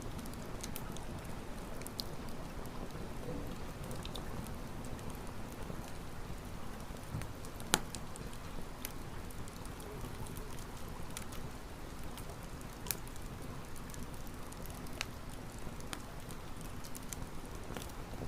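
Wood campfire burning, with a steady hiss and scattered sharp crackles and pops from the burning wood, one louder pop about eight seconds in.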